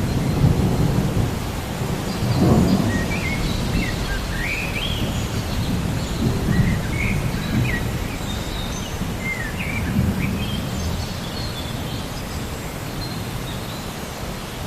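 Rain falling steadily, with low thunder rumbling several times, and birds chirping in short rising and falling calls throughout.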